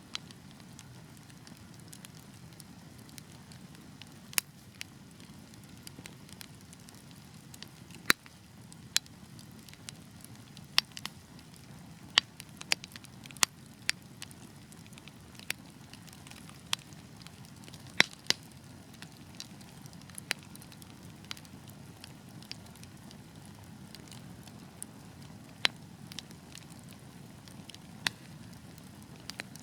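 Wood fire burning: a steady low rush of flames with irregular sharp crackles and pops from the logs, a handful of them much louder.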